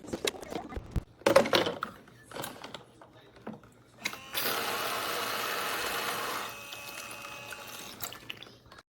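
Knocks and clatter of plastic toy pieces being handled, then the toy play sink's battery-powered faucet pump running water with a steady whir and splash. About two seconds later it drops quieter, and near the end it cuts off.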